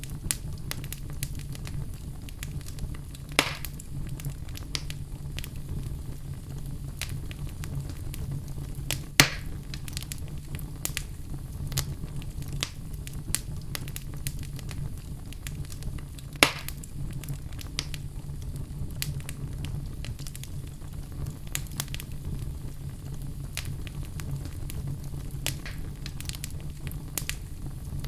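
Fire in a fireplace crackling continuously over a steady low rumble of the flames, with many small clicks and a few sharper pops, the loudest at about three, nine and sixteen seconds in.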